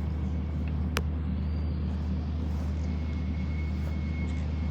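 Steady low mechanical hum and rumble, with a single sharp click about a second in.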